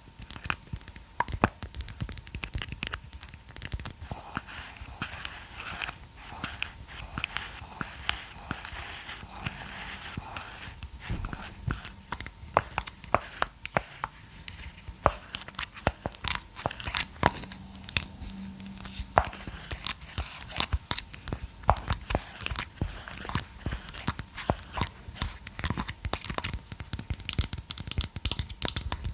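Close-miked handling sounds: rapid, irregular clicks and taps mixed with crinkly rustling, steady in density throughout.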